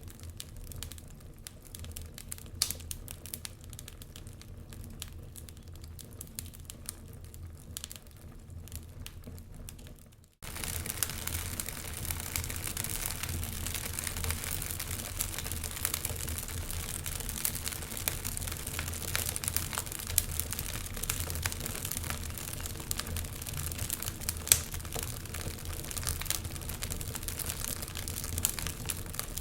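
Wood fire crackling, with frequent sharp snaps and pops over a steady hiss. About ten seconds in it cuts out for an instant and resumes louder, with more crackling.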